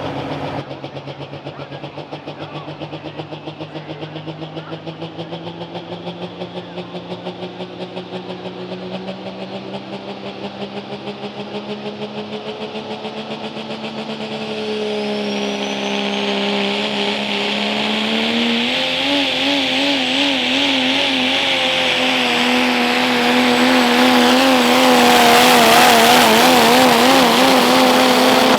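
Turbocharged diesel 4WD pickup pulling a sled under full load. The engine note holds steady at first, then climbs in pitch and loudness over the second half with a rising turbo whistle. For the last several seconds the engine note wavers rapidly as the truck works against the sled.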